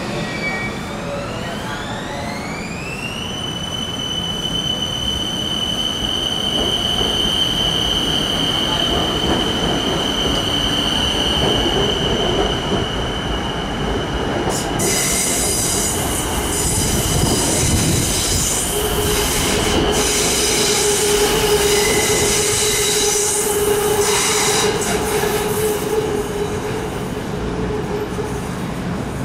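BTS Skytrain electric train in the station: a high electric whine glides up in pitch over the first few seconds, then holds steady. About halfway through, louder rolling noise comes in with high wheel squeal.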